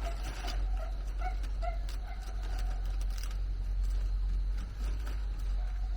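A few short, pitched animal calls in quick succession in the first two seconds, over a steady low hum.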